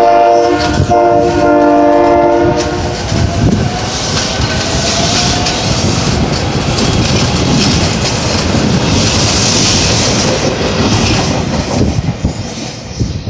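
SEPTA Silverliner V electric commuter train's horn sounding for a road crossing: a long chord with a brief break about a second in, stopping about two and a half seconds in. Then the train rumbles and clatters past on the rails as it pulls away from the station, with a faint rising whine, and the noise eases near the end.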